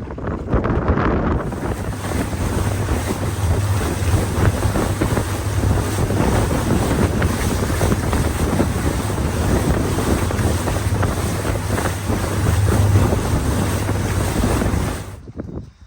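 Motorboat running at speed with a steady low engine drone, heavy wind buffeting the microphone and water rushing past the hull. It cuts off suddenly near the end.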